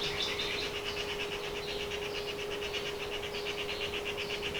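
A fast high-pitched pulsing trill of a calling animal, about a dozen pulses a second, held steadily, over a steady low hum.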